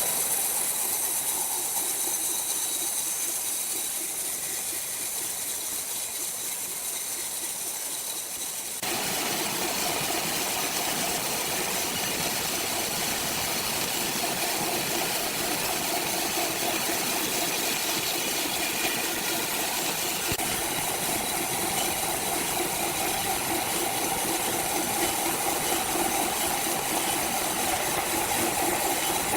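Sawmill machinery running steadily, a constant hiss over a low hum. The sound changes abruptly about nine seconds in, as at a jump to another shot, and then runs on steady.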